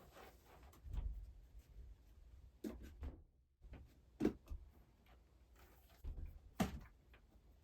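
A few light knocks and taps from hands handling the guitar and setup tools, with quiet scraping between.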